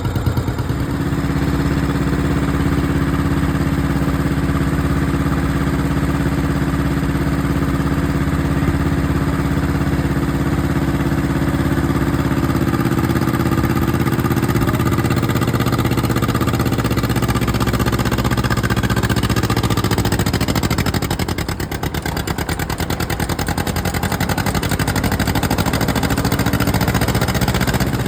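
An engine running steadily, its note changing about 20 seconds in.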